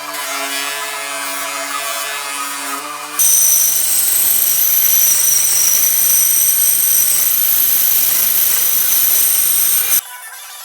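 Power tools working on a small steel axe head. A pitched machine hum cuts abruptly about three seconds in to a louder, hissing tool with a steady high whine, which cuts off again near the end.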